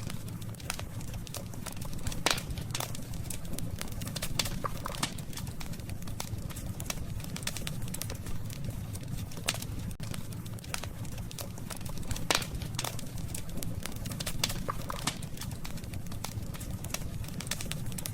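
Wood campfire crackling: irregular sharp pops and snaps from the burning wood, a few louder than the rest, over a steady low rumble.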